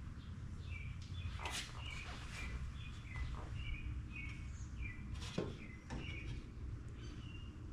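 Small songbird chirping, a string of short high notes about two a second, with a few sharp knocks among them and a steady low rumble underneath.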